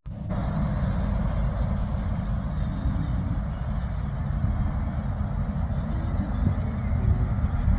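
Heavy truck running along the road: a steady low engine rumble with tyre and road noise, getting a little louder near the end.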